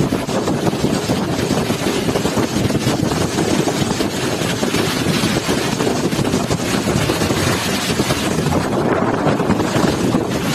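Cyclone-force wind buffeting the microphone, a loud, dense, steady rush that swells and eases slightly throughout.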